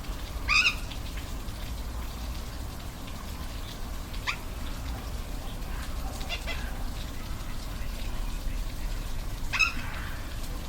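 Steady rush of a waterfall, with an animal giving four short, high calls over it, the first and last the loudest.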